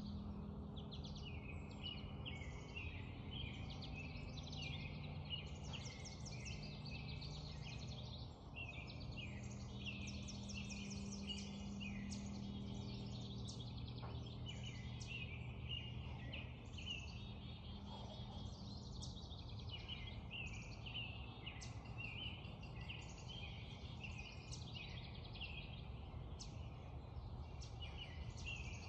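Dawn chorus of many songbirds singing and chirping over one another in quick, overlapping trills and notes. A steady low hum runs underneath.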